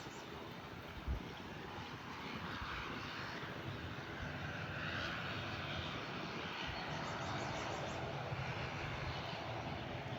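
Airliner engines running steadily, growing a little louder over the first few seconds and then holding, with a brief low thump about a second in.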